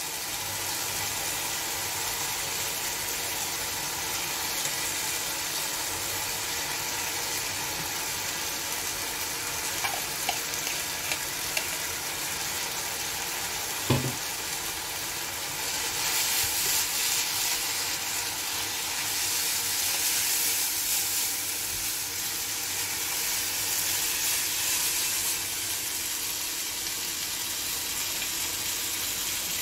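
A stir-fry of prawns, chicken, vegetables and sauce sizzling in a non-stick wok. A sharp knock comes about halfway through. After that the sizzling grows louder as boiled noodles are stirred and tossed through with metal tongs.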